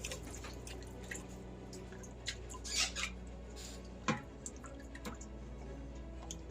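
Faint kitchen liquid sounds: scattered small drips and pops with light clicks, one sharper knock about four seconds in, over a steady low hum.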